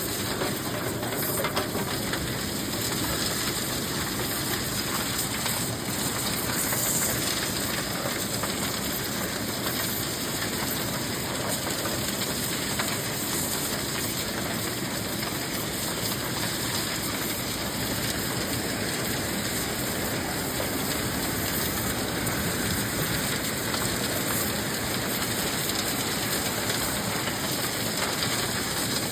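Vacuum excavation truck running, a steady, unbroken rushing hiss of its suction with no pauses.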